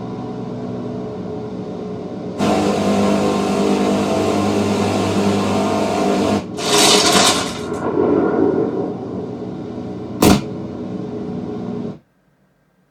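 A war-film soundtrack playing through Dolby Atmos in-ceiling speakers only: a steady engine-like drone that gets louder a couple of seconds in, a loud rushing noise, a single sharp bang, then the sound cuts off abruptly near the end.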